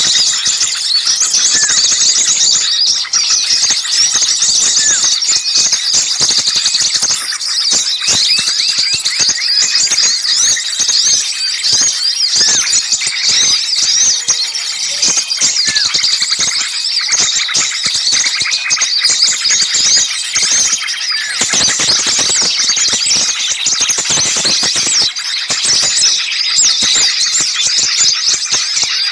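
A dense chorus of many small songbirds chattering and calling at once, with rapid high chirps and short whistles overlapping without a break. It is a bird-lure recording of agitated, alarm-like "ribut" calls used to draw small birds in.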